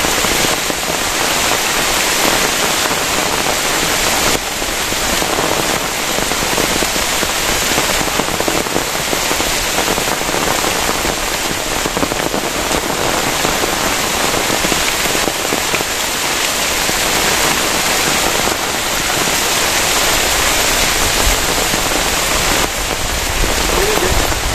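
Heavy rain falling steadily: a loud, even downpour hiss.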